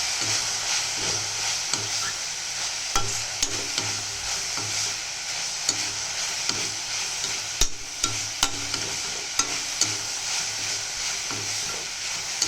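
Chopped vegetables and spices sautéing in oil in a kadai, sizzling steadily while a spoon stirs them, scraping and clicking against the pan, with a couple of sharper knocks around the middle.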